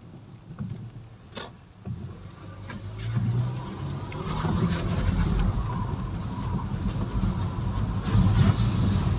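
Low vehicle rumble that grows louder from about two seconds in, with a few faint clicks before it.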